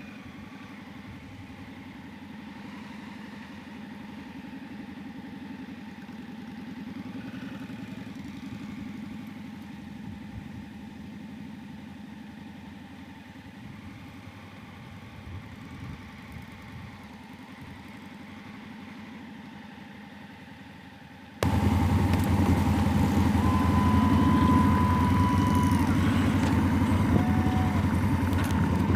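Motorcycle engine running steadily at a low, quiet level. About two-thirds of the way through it cuts abruptly to a much louder engine sound, close up and noisy.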